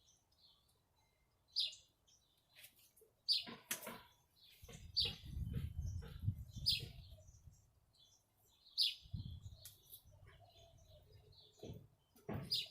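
Short, high bird-like chirps repeating every second or two, with low rumbling and handling noise between them.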